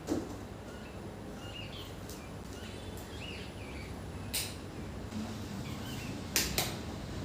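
Small birds chirping on and off over a low steady hum, with a few sharp clicks or knocks: one at the start, one about four seconds in, and two close together near the end.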